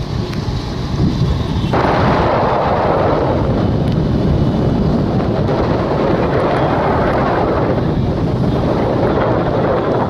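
Wind buffeting the microphone on a moving motorcycle, a loud steady rumble over the engine and road noise. It gets fuller and louder about two seconds in.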